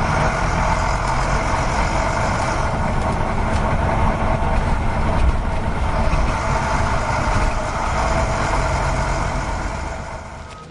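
Truck engine running steadily with a low rumble and a hiss that comes and goes; it fades near the end.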